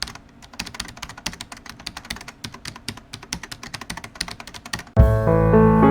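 Rapid computer-keyboard typing clicks for about five seconds, as a typing sound effect. About five seconds in, music starts abruptly and much louder, with deep bass and held pitched notes.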